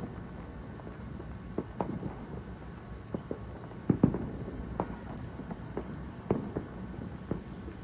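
Fireworks going off: a scatter of bangs and pops at irregular intervals, each ringing briefly, with the loudest pair about four seconds in.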